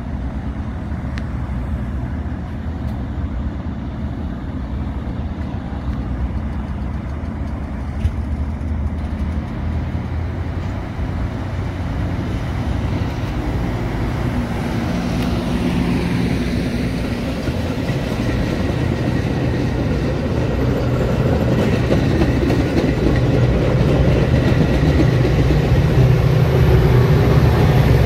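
Metra commuter train's bilevel cars rolling past with a steady rumble of steel wheels on rail. Its diesel locomotive, pushing at the rear under power, grows louder toward the end as it comes alongside.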